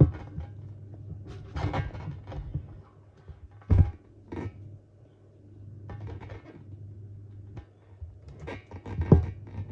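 Scattered thumps and scraping noises over a steady low hum, with the loudest knocks about four seconds in and near the end.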